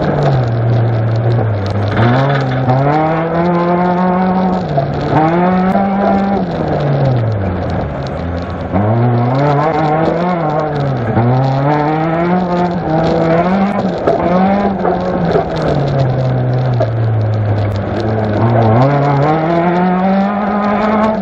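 Suzuki Swift GTI's four-cylinder engine heard from inside the stripped, caged cabin, revving up and dropping back again and again as the driver accelerates and lifts through the corners.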